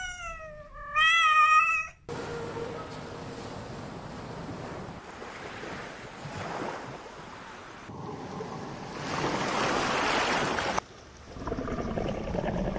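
A domestic cat meows twice in the first two seconds, the second meow longer and wavering; then a steady rush of surf or churning water takes over, growing louder for a couple of seconds before dropping near the end to quieter water noise.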